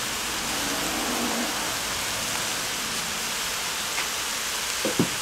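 Sliced mushrooms sizzling steadily in a cast-iron Dutch oven as they shrink and cook down. A short knock comes near the end.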